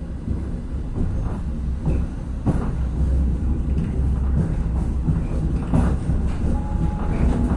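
Regionova diesel railcar running along the track, heard inside the passenger cabin: a steady deep rumble with irregular clicks and knocks from the wheels on the rails, growing slightly louder as the train gathers speed.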